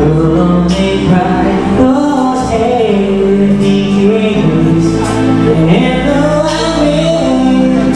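Karaoke performance: a backing track playing steadily, with a singer's voice carrying a wavering melody over it.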